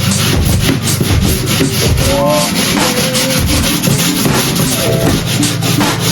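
Scrubbing a surface by hand: quick, repeated rubbing strokes over a steady low hum.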